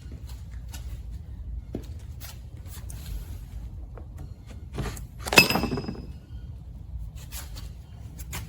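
Metal parts of a trike's rear axle assembly being handled, giving scattered light clicks and knocks, with one sharp ringing metal clank a little past halfway.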